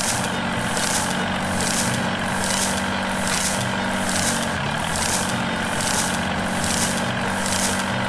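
Small electric motor of a DIY mini tractor running steadily with a low hum and a swish that repeats a little more than once a second.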